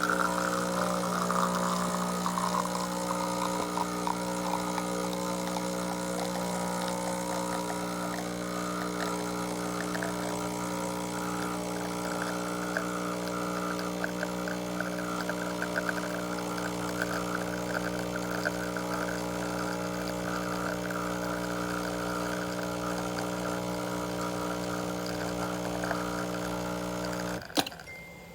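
Sage Oracle Touch espresso machine's pump running with a steady hum while coffee trickles and hisses through, as during an espresso extraction; it cuts off suddenly with a click near the end.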